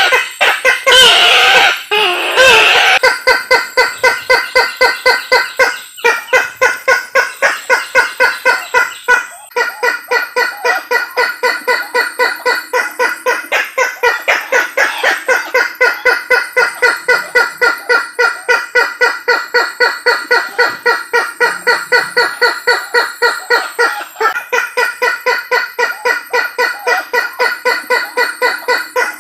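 Lure-call recording of the Sulawesi kareo (tattakeo), a rail, calling. A louder, jumbled burst of calls in the first few seconds gives way to a long run of rapid, even notes, about three a second.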